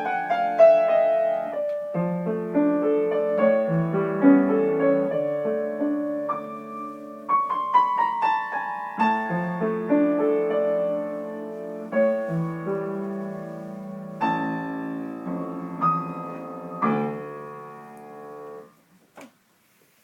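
Piano practice of a stormy piece: chords and quick descending runs, which the uploader says still has many mistakes. The playing stops shortly before the end, followed by a couple of faint clicks.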